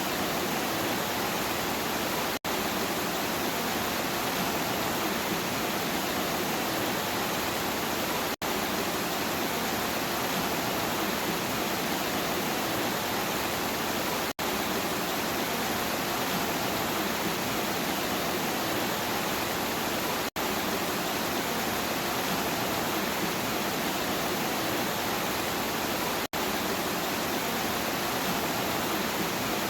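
Steady rain, an even rushing hiss with no thunder, broken by a split-second dropout about every six seconds.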